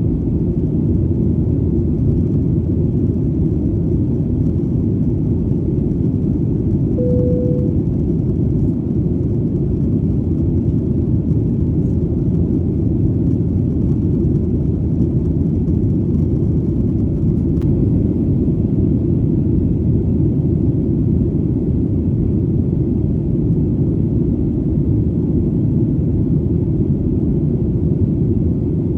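Airplane engine noise: a steady, deep rumble with no change in pitch. A short single tone sounds briefly about seven seconds in.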